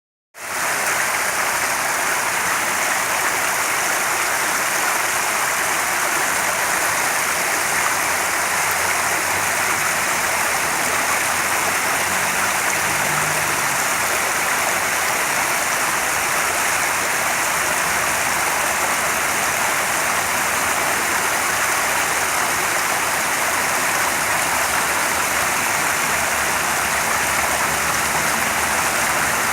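Flowing stream water rushing steadily and without a break.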